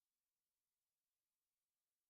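Near silence: only a faint even hiss.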